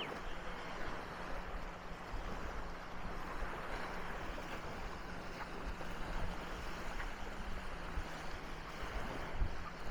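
Sea waves washing onto a sandy beach as a steady surf noise, with wind gusting on the microphone and a faint low steady hum underneath.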